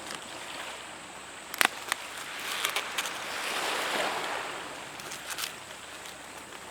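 Sea waves washing onto the beach, one surge swelling and fading about halfway through. A few sharp clicks and knocks stand out over it, the loudest a double knock under two seconds in.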